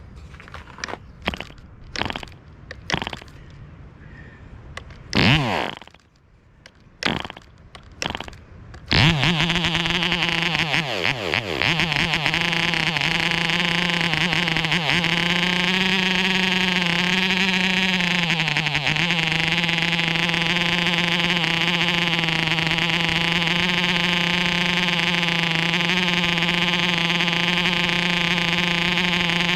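MARZ 2.5cc model-airplane diesel engine being started: a string of short pops and brief firings, then about nine seconds in it catches and runs steadily at high speed. Its pitch wavers for a few seconds in the middle before settling into an even note.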